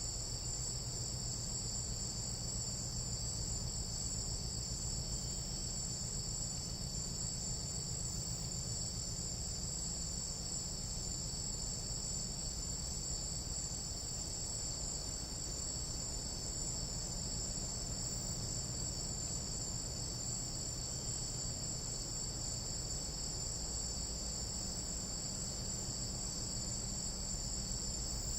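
Tropical night insects trilling in a continuous, steady chorus, a high two-band shrill with a low rumble beneath.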